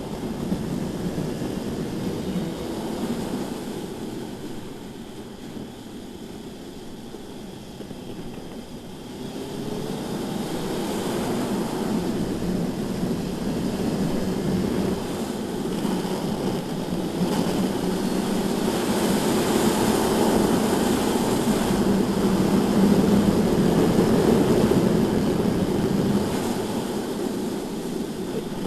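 BMW S1000RR inline-four sport bike engine running at track speed, with wind rush over it. The engine eases off for a few seconds near the start, then pulls harder again and stays loud, its pitch rising and falling with the throttle.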